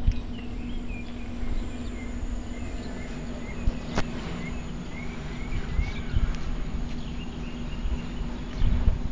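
Small birds chirping in short, repeated notes over a steady low hum and low rumbling noise, with one sharp click about four seconds in.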